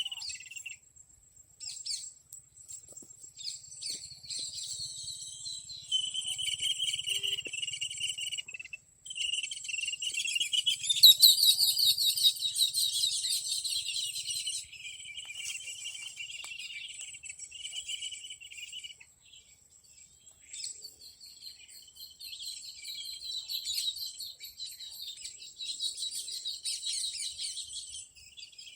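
Birds calling and insects chirping in a chorus of high trills that swell and fade, loudest about 11 to 14 seconds in, over a steady thin high insect tone.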